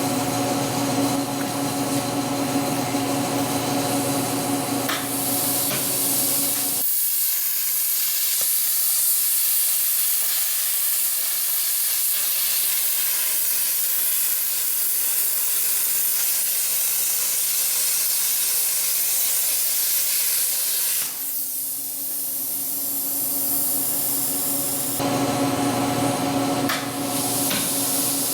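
Hypertherm plasma cutter running: a loud steady hiss with a buzzing hum for about the first seven seconds. Then the torch's air hisses alone for about fourteen seconds, and the hum comes back over the last seven seconds.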